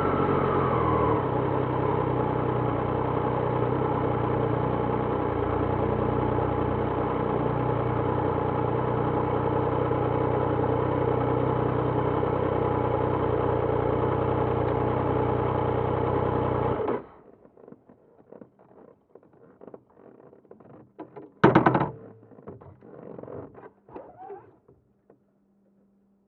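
2026 Triumph Trident 660's inline three-cylinder engine idling steadily, its revs settling in the first second, then cutting off suddenly about 17 seconds in. After that come scattered light clicks and one loud knock.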